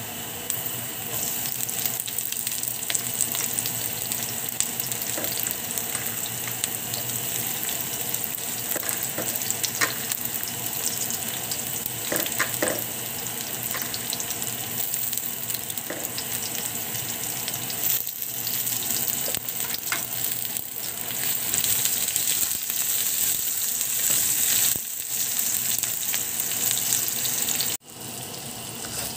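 Ginger strips, with garlic slices added, frying in hot oil in a nonstick wok: a steady sizzling hiss with scattered small crackles. It breaks off suddenly near the end, then resumes as sliced onion and red pepper are stirred in the pan with a spatula.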